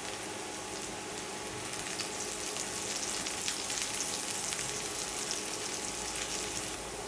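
Food sizzling and frying in hot oil in a pan, with a steady crackle of spitting oil. The crackling grows denser about two seconds in and eases near the end.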